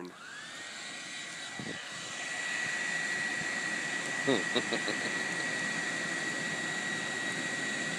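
Hair dryer switched on: its motor whine climbs in pitch over the first half second, then runs steady with a rush of blown air that builds over the next two seconds.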